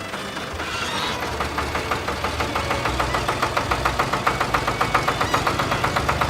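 Engine sound effect chugging in fast, even pulses, about seven or eight a second, that grow stronger after the first second or so.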